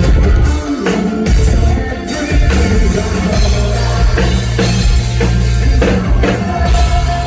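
Rock band playing live at full volume: electric guitars, bass and a drum kit hitting a steady beat.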